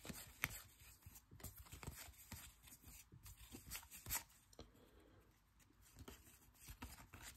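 Faint, irregular soft ticks and rustles of trading cards being handled and flipped through a stack.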